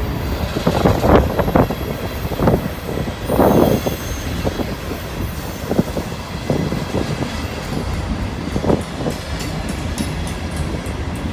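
Freight train rolling past: a steady rumble of wheels on rail with irregular clanks and clatter, most of them in the first few seconds and another near the end.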